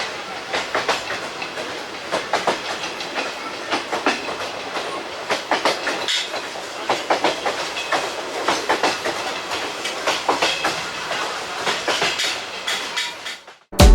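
ICF passenger coaches running along the track, their wheels clicking and clattering irregularly over rail joints amid a steady rumble and rattle. The sound cuts off abruptly near the end.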